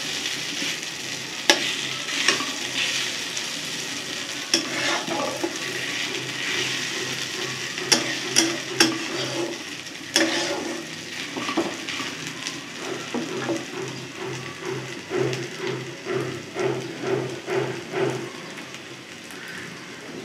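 Okra and onion bhujia sizzling in a kadhai while a spatula stirs it, with sharp clicks of the spatula against the pan. In the second half the stirring settles into a steady rhythm of scraping strokes, about two a second.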